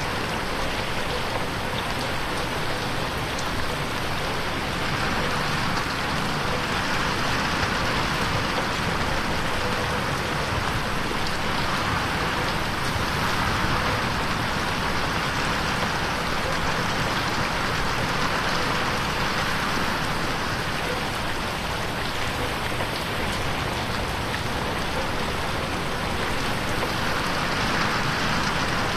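Steady rain pattering on a window pane, a dense even hiss of drops that swells and eases slowly every several seconds, processed as 8D audio that moves around the listener's head.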